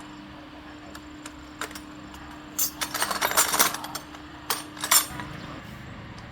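Small metal parts and tools clinking and rattling as they are handled, with a quick flurry of clinks about three seconds in and two sharper knocks near the five-second mark.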